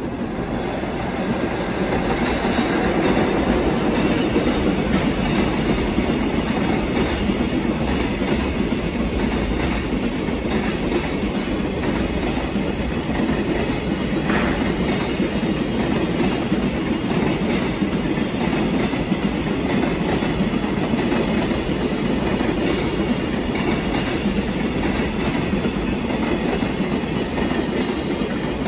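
Freight train rolling past, its wagons' wheels clattering steadily on the rails, with a couple of sharp clicks about 2 s and 14 s in.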